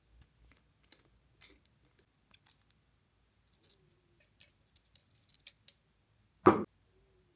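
A string of light clicks and rattles of small objects being handled, growing busier about four seconds in, then one louder thump about six and a half seconds in.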